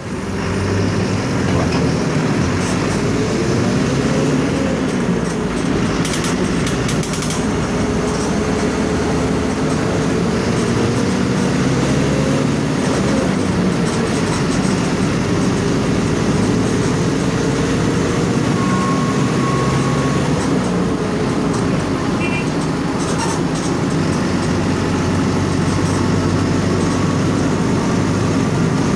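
Mercedes-Benz OF 1722M bus's 4.8-litre four-cylinder OM 924 LA diesel running on the move. The engine note rises and falls a few times as it is driven.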